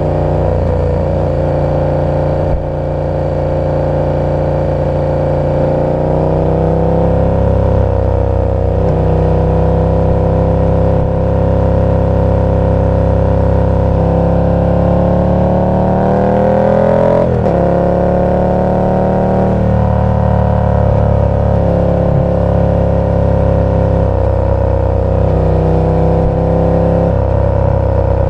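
KTM 1290 Super Duke R's V-twin engine through its aftermarket exhaust, mostly running steadily at low revs. Around two-thirds of the way through it revs up and the pitch climbs for a few seconds, then drops sharply as the throttle is closed or a gear is shifted.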